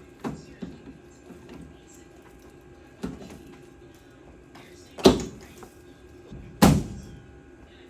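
A few light knocks, then two heavy thumps about a second and a half apart from work on a pickup truck's door, such as the door being shut or its panel being pushed home.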